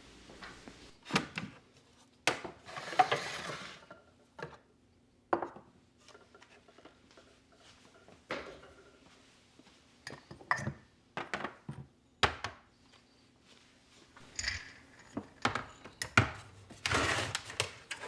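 Household objects being picked up and set down on hard surfaces: a series of separate knocks and clinks, with a longer scuffing sound about three seconds in and another near the end.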